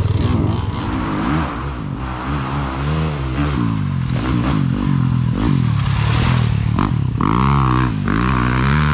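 Small pit bike engine revving, its pitch rising and falling repeatedly as the throttle is worked on and off.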